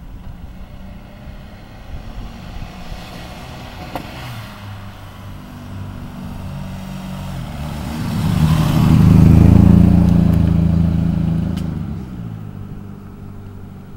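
Turbocharged Suzuki Swift GTi's four-cylinder engine running as the car drives past. The engine grows louder as the car approaches, is loudest as it passes about two-thirds of the way through, then fades as it drives away.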